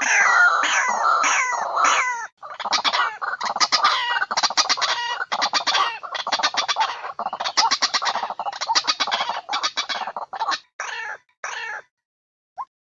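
White-breasted waterhen (ruak-ruak) call played as a trapping lure: a long, rapid run of harsh, repeated croaking notes that breaks into a few separate calls and stops near the end, followed by a short clipped note.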